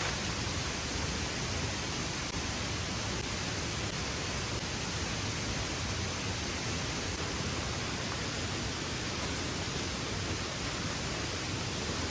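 Steady, even rush of falling water, heavy rain and waterfall noise.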